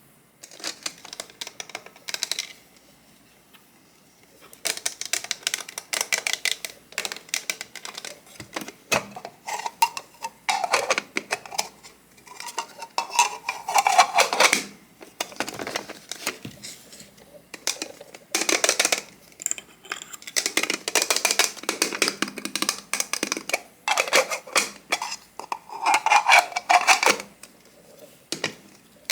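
Light clicking and clattering of small dishes and utensils, in bursts of a second or two with short pauses between, and a few brief ringing tones.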